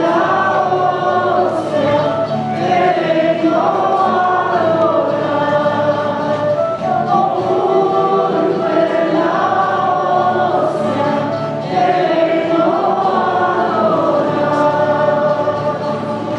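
Church choir singing in long, held phrases, with a steady low accompaniment underneath.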